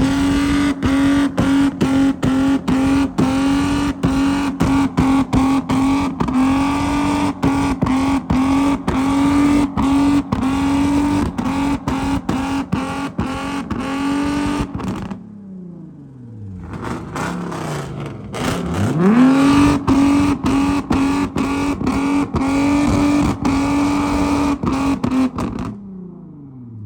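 Car engine revved up and held against its rev limiter, the ignition cutting out a few times a second in a rapid stutter. It is the sound of a two-step or a held rev during a burnout. After about 15 s the revs fall, then it revs up again and holds on the limiter for several more seconds before dropping away near the end.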